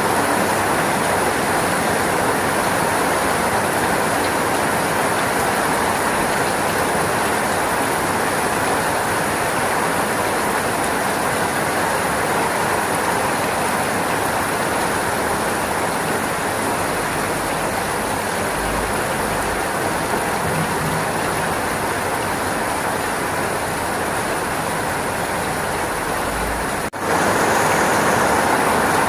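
Steady rain falling, an even hiss of many drops. Near the end it drops out for an instant and comes back a little louder.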